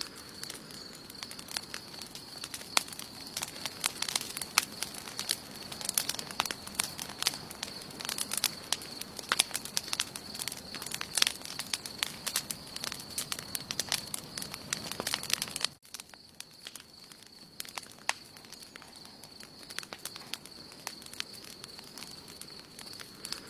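Wood campfire crackling, with dense sharp pops and snaps that thin out after a sudden dip in level about two-thirds of the way in. A steady high-pitched tone runs underneath.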